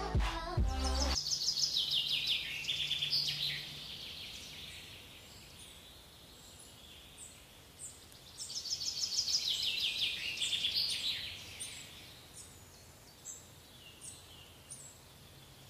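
Intro music cuts off about a second in, and then a songbird sings a fast trill of notes falling in pitch, twice, with short high chirps between the phrases.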